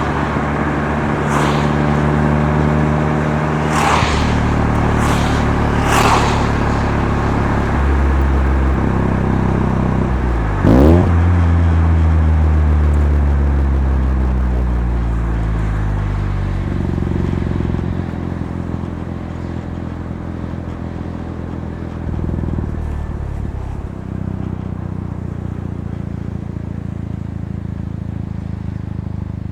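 Mazda RX-7 FC3S's 13B rotary engine running through an aftermarket Knight Sports sports muffler while driving. The exhaust note rises and falls with the revs, with a sharp rev swing about eleven seconds in (the loudest moment), then a long falling note as the revs drop, and steadier running after that.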